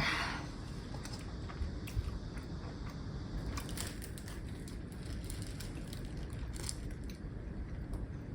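Close-up eating sounds: a short noisy bite or slurp at the start, then quiet chewing with scattered small clicks over a steady low hum.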